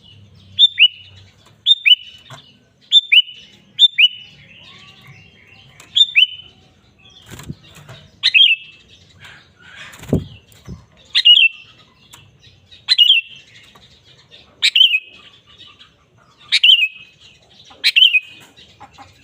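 Sooty-headed bulbul (kutilang) singing in full voice: short, sharp, downward-sliding calls repeated every second or two, in quick pairs at first, then single stronger notes. About halfway there is a dull thump.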